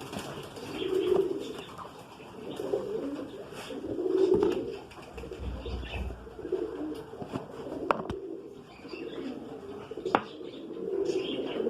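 Domestic pigeons cooing, a low warbling coo every second or two, with two sharp clicks in the second half.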